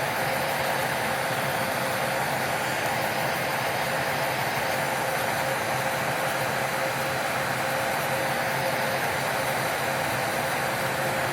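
A small electric motor running steadily at constant speed, a continuous hum with a steady whine, as from salon nail equipment.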